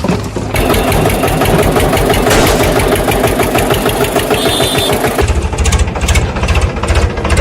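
An engine running with a rapid, even chugging pulse that grows stronger about five seconds in.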